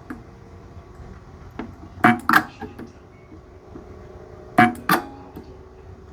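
Sunko 709A spot welder firing, welding nickel strip onto 18650 cells: sharp snaps in pairs about a third of a second apart, twice, over a faint steady hum.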